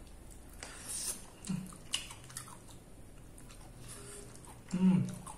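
A person biting and chewing chicken feet, with scattered wet smacks and small clicks of mouth and bone. A short vocal sound near the end is the loudest moment.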